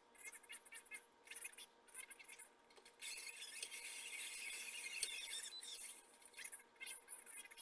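Faint high-pitched scraping and squealing of a cutting tool working metal, in short scrapes with a denser, steadier stretch in the middle.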